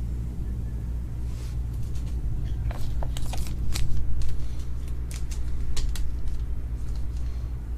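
Trading cards being handled and flipped through by hand: a string of short crisp clicks and slides, thickest in the middle, over a steady low hum.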